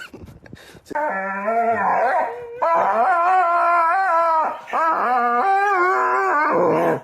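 Dog howling in long, drawn-out notes whose pitch wavers up and down. The howling starts about a second in and breaks briefly past the halfway point before a second long howl.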